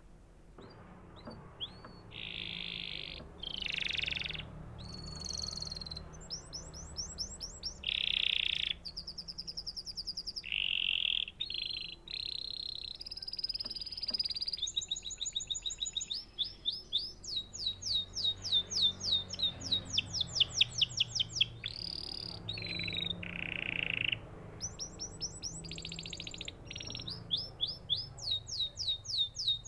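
Domestic canary singing a long, varied song: fast high trills, runs of quickly repeated sweeping notes and short buzzy rolls follow one another without a break.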